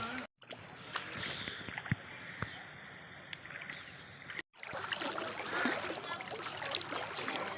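Floodwater running and splashing, with scattered small knocks. The sound cuts out briefly twice, about half a second in and about four and a half seconds in, where clips are joined.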